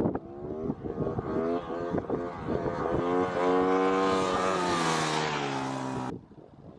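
Motorcycle engine revving in several short rises, then pulling hard at high revs for about three seconds with the pitch slowly sagging, before cutting off suddenly about six seconds in.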